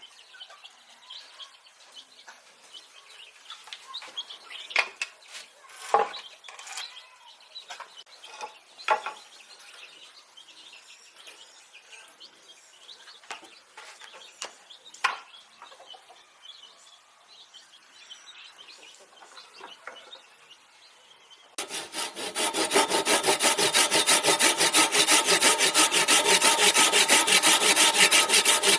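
Scattered knocks and clicks of wood being handled. About three-quarters of the way in, a saw starts cutting through wood with a loud, fast, even rasping rhythm.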